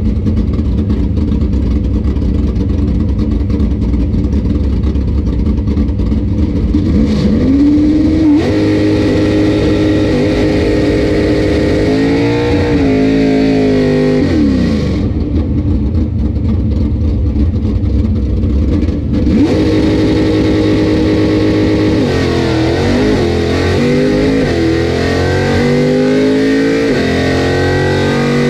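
A drag race car's engine heard from inside the cabin: idling steadily, then revved several times, then pulling away with rising revs that drop back at each gear change.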